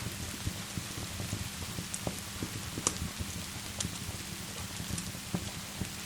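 Steady rain together with a crackling fireplace, with scattered sharp pops; the loudest comes about three seconds in.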